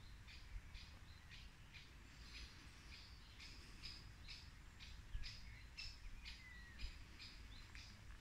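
Faint birdsong: a small bird repeating short, high chirps about every half second, with a brief falling whistle about two-thirds through.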